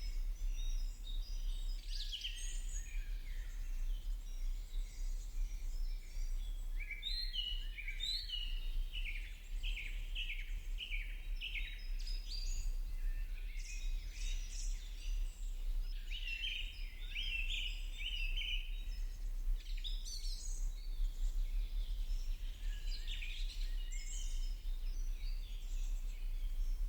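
Birds chirping, with quick runs of repeated notes, over a steady low hum.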